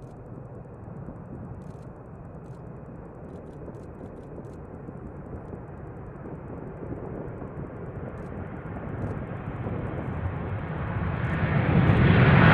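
Jet aircraft approaching: a rushing engine noise that grows steadily louder and brighter, swelling sharply near the end.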